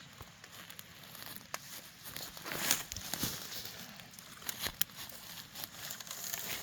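Irregular rustling and crackling of dry leaves and twigs underfoot, like someone walking through forest undergrowth, with a louder crunch a little before the middle.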